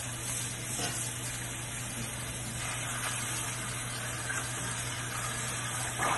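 Chopped green onions frying in hot oil in a stainless steel pan: a steady sizzle, with a spatula stirring through them in the second half.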